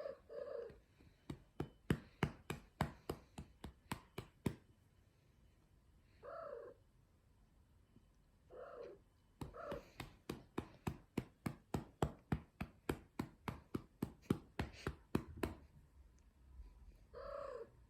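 A hand patting a cat's rump in quick rhythmic slaps, about three a second, in two runs, while the cat gives short meows: at the start, twice in the middle and once near the end.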